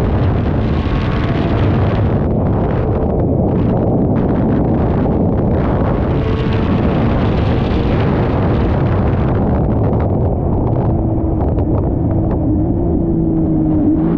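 Motorcycle engine running with a loud, rough rumble and wind noise on the microphone. A steady engine note comes through more clearly in the last few seconds.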